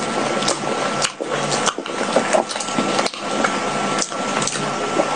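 Close-miked chewing of a fried sticky rice cake with soft custard topping: wet, squishy mouth sounds broken by sharp smacking clicks every half second to a second.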